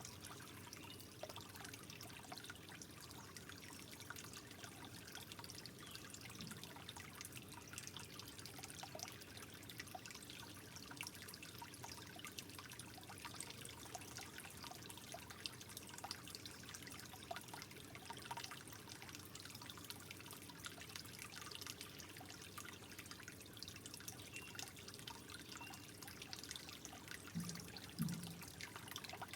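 Faint, gentle trickling water with many small drips and ticks, steady throughout. A brief low bump near the end is the loudest moment.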